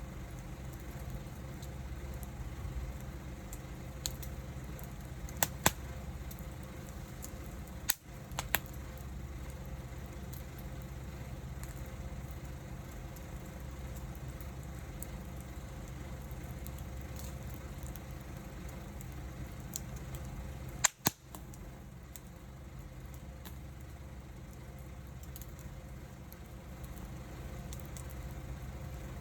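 Wood fire crackling with a few sharp pops: a cluster in the first third and a pair about two-thirds in, over a steady low rumble.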